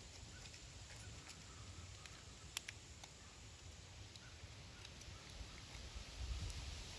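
Faint handling sounds of a carburetor float bowl being cleaned: scattered light clicks, with one sharper click about two and a half seconds in.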